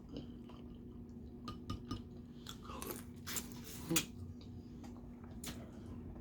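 Close-up eating sounds: scattered small clicks and crunches of crab legs and crawfish being cracked and chewed, with a faint steady hum underneath.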